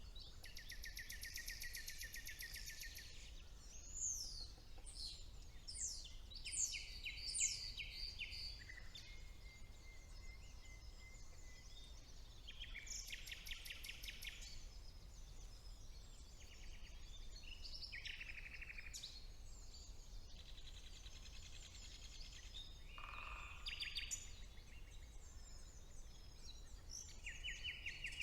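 Common nightingale singing in spring woodland: loud phrases of rapid repeated notes alternate with clear sweeping whistles, with fainter birds calling behind. A steady low background rumble runs underneath.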